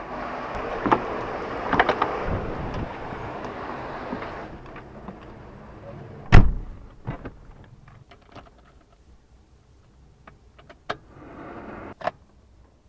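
A car door shutting with a single heavy thud about six seconds in, among lighter clicks and knocks of handling inside the car. Before the door shuts there is a steady hiss with scattered clicks.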